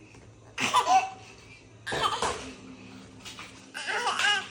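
A young child laughing in three short bursts, the middle one rougher and noisier than the others.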